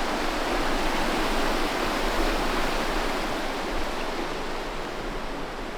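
River rapids: fast, shallow water rushing over rocks in a steady, unbroken rush.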